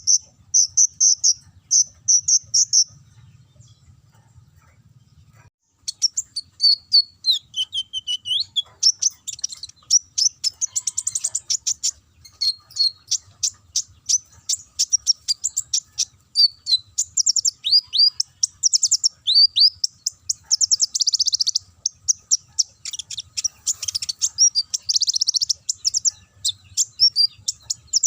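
Kolibri ninja (purple-throated sunbird) singing a fast, high-pitched canary-like song of rapid trills, chirps and quick downward-sweeping notes. It breaks off for a couple of seconds about three seconds in, then sings on without a break.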